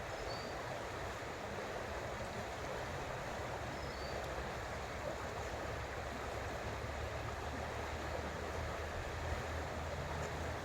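Creek water running steadily, a continuous rushing babble, with a low steady hum underneath and two faint short high chirps, near the start and about four seconds in.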